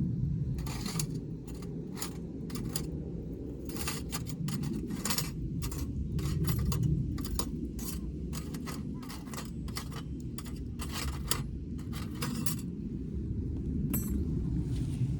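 Irregular short clinks and scrapes of tableware or cooking utensils, about a dozen over the stretch, with a steady low rumble underneath.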